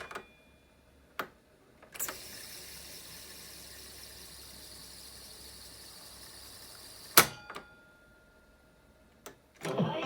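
Tesla B 100 Stereo reel-to-reel tape recorder, freshly fitted with new belts and lubricated, being operated: clunks of its control keys, then its tape transport running with a steady whir for about five seconds until a sharp clunk stops it. Two more key clicks follow, and playback music starts at the very end.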